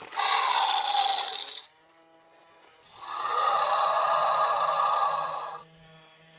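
Electronic creature toy playing a synthetic growl through its small speaker twice: a short growl that starts right away and a longer one about three seconds in. Faint steady electronic tones sound between and after the growls.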